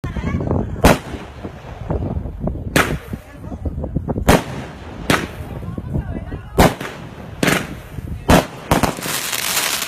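Multi-shot fireworks cake firing: about seven sharp bangs at irregular intervals of one to two seconds, then dense crackling near the end.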